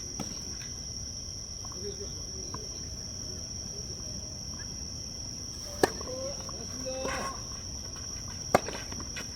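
Steady high-pitched buzz of insects, with two sharp tennis ball strikes on racket strings about three seconds apart, the second near the end.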